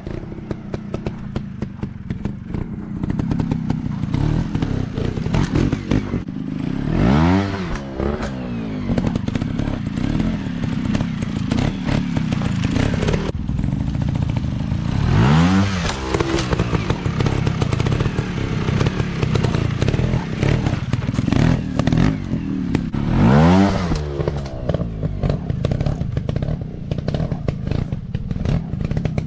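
Dirt bike engines running over rough ground, with rattling and clatter throughout. The engine note revs up and falls back three times, about eight seconds apart.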